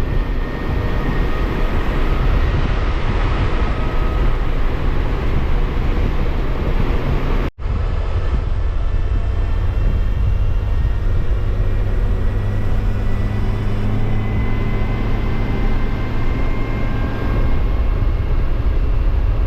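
Motorcycle riding at road speed: steady wind rush on the microphone over a low engine and tyre drone. The sound cuts out for an instant about a third of the way through.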